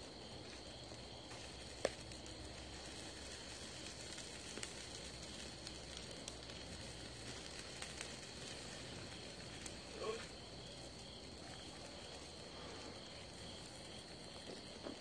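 Faint, steady hiss of a wood fire grilling fish, with a sharp crackle about two seconds in and a softer pop near ten seconds.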